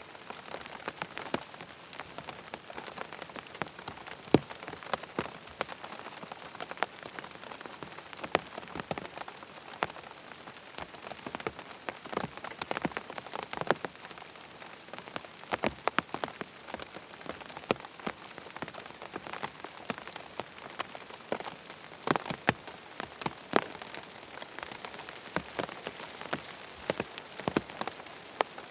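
Steady rain with many sharp, close drop impacts ticking irregularly through it.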